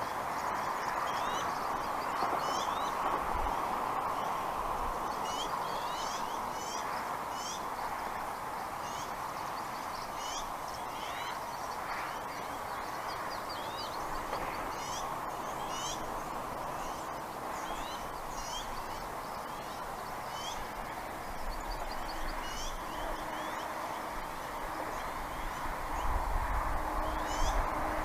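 Birds calling in many short, high chirps, repeated throughout over a steady background hiss, with a low rumble building near the end.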